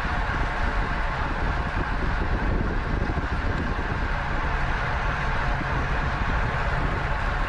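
Steady wind rush on the microphone of a camera riding along on a racing bicycle at speed.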